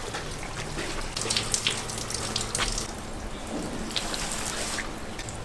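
Water running and splashing, with scattered small clicks and knocks.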